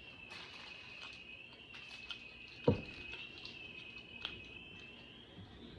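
Quiet eating sounds: scattered small mouth clicks and smacks from chewing, with one sharper knock a little under halfway through. A steady high-pitched whine runs underneath.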